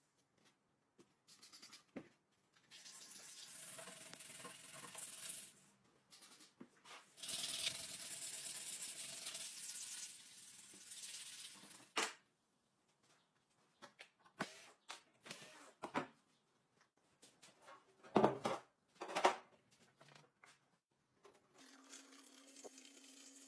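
Hand work on a metal knife blank: two stretches of steady rubbing hiss, the first about three seconds in and the second ending in a sharp click, then scattered light taps and two louder knocks near the end.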